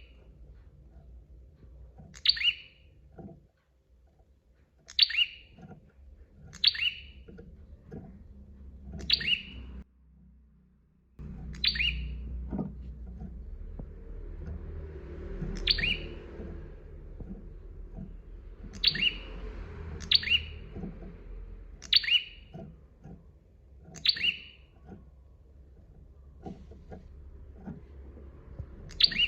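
Prenjak (prinia) giving short, sharp calls, each dropping quickly in pitch, repeated about a dozen times at uneven gaps of one to four seconds, over a faint low background rumble.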